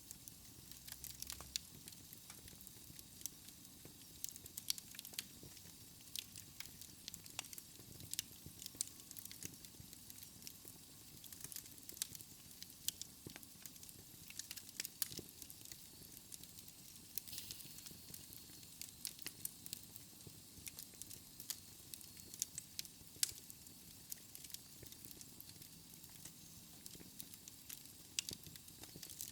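Wood fire in a fireplace crackling, with irregular sharp pops and snaps over a soft steady hiss and a low rumble of flames.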